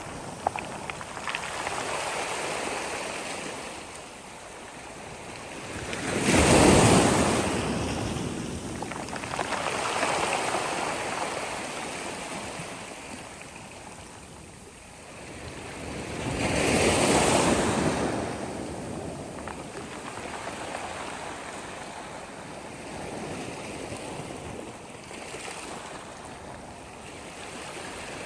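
Sea waves breaking on the shore and washing back, rising and falling in surges. The biggest breaks come about a quarter and about two-thirds of the way through, the first the loudest.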